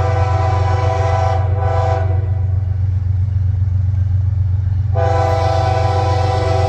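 A diesel locomotive's five-chime K5H air horn sounds a long blast that cuts off about two seconds in, then sounds again about five seconds in, over the steady low rumble of the passing locomotive.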